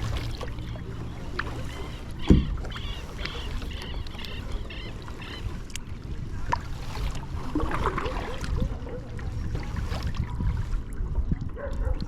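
Water lapping and splashing around a kayak under paddle strokes, over a steady low rumble on the action-camera microphone. One sharp knock comes about two seconds in, and small high chirps or drips sound for a few seconds after it.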